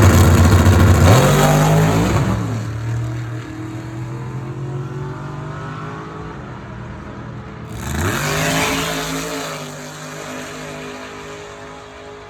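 Drag-racing street car launching at full throttle, the engine pitch climbing and then dropping at a gear change about two seconds in, fading as it pulls away down the track. About eight seconds in another loud launch follows, revving up and fading in the same way.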